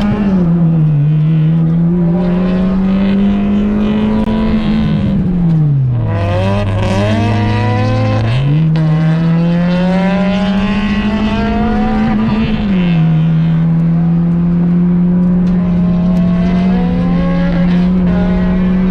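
Honda Fit's 1.5-litre four-cylinder engine running hard at high revs on a race track, its pitch climbing steadily and stepping down with gear changes. About five seconds in the revs fall away sharply and stay low for a couple of seconds, then jump back up and climb again.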